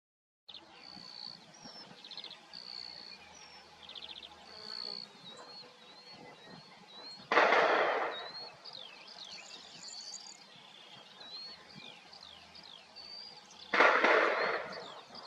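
Wild birds calling: short high whistled notes, some rising, repeat throughout. Twice, about six seconds apart, a loud harsh rasping sound about a second long cuts across them.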